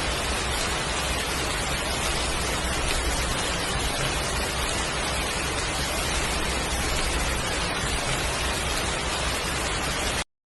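Heavy rain, a steady even hiss of downpour, which cuts off suddenly near the end.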